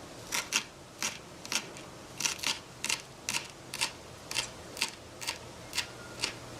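Small knife chopping on a miniature cutting board: short, sharp knocks about two a second.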